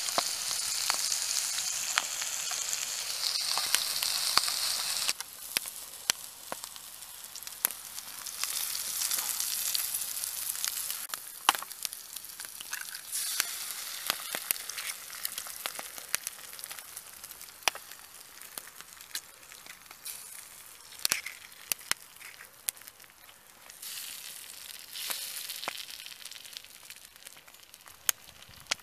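Wood fire sizzling and hissing, with frequent sharp crackles of burning wood. The hiss is strongest for the first five seconds, then fades and swells again in waves.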